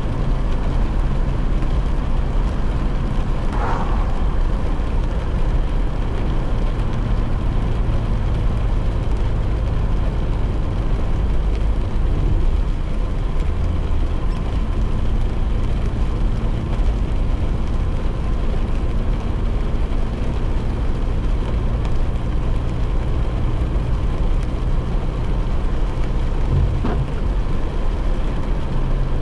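Steady noise inside a car driving in the rain: a low engine and road hum with tyres on the wet road and rain on the car.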